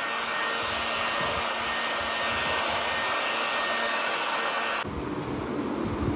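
A motor-driven blower running steadily with a rush of air, which cuts off suddenly near the end.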